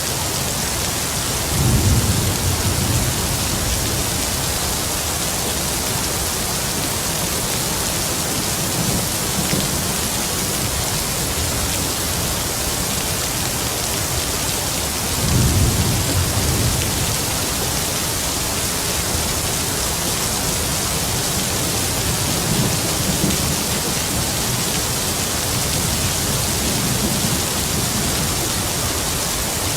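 Heavy rain falling in a steady hiss, with rolls of distant thunder rumbling low about two seconds in and again about fifteen seconds in, and fainter rumbles between.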